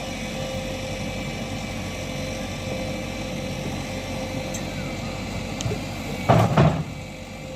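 JCB 3DX backhoe loader's diesel engine running steadily, with two loud bangs close together a little over six seconds in.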